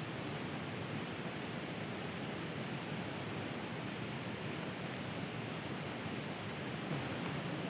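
Steady hiss of rain falling, even and unbroken, with no distinct drops or knocks standing out.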